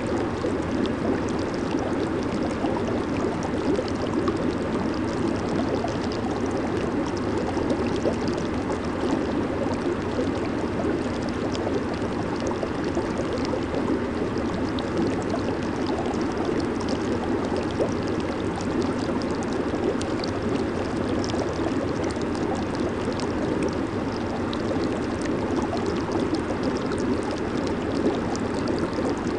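Jacuzzi bubbling steadily: a constant churn of water and air bubbles, fullest in the low-middle range, with fine crackling of bursting bubbles on top.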